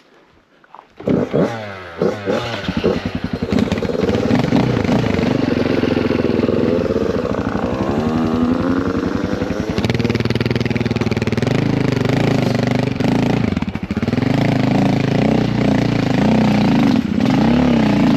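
Dirt bike engine: after a quiet first second it comes in with a few quick throttle blips, then runs hard, its pitch rising and falling as the throttle opens and closes.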